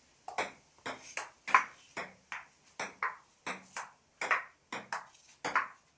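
Table tennis rally: the celluloid-type ball clicking off the bats and bouncing on the table in a quick, steady back-and-forth, a hit and a bounce about every half second.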